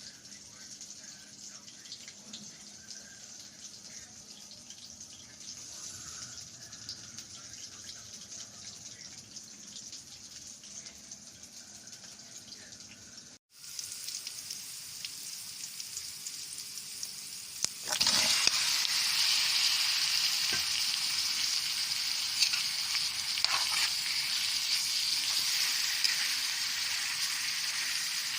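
Food frying in a pan of hot oil. A faint, steady hiss in the first half, then about two-thirds of the way in a sudden, much louder sizzle sets in and keeps going, as food goes into the hot oil.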